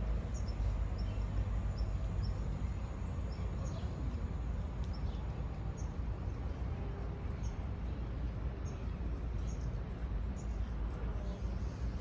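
Steady sound of the sea with a low rumble, and a small bird giving short high chirps about once a second.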